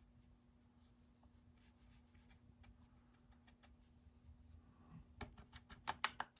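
Faint scratching of a watercolor brush on paper, then a quick run of sharp clicking taps near the end as the brush knocks against its water container to take up more water.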